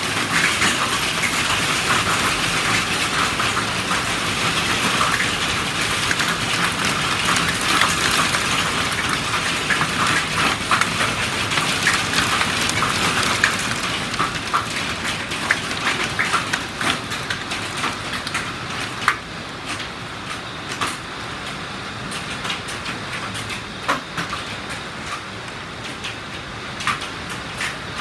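Hailstorm with heavy rain: a dense hiss of rain packed with sharp ticks of hailstones striking hard surfaces. It eases after about fifteen seconds into a lighter hiss with scattered hits.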